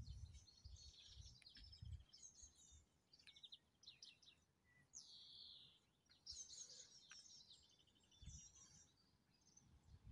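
Faint songbirds chirping and trilling, several short calls and one falling whistle about five seconds in, with a few low thumps near the start and again about eight seconds in.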